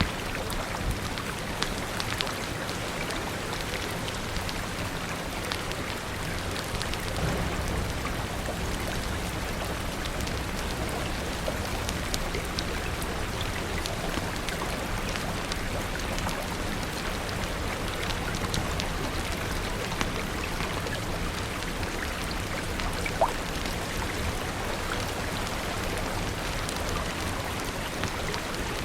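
Steady rain falling, mixed with a fire crackling: scattered sharp clicks and pops over the even hiss, with one louder pop about three-quarters of the way through.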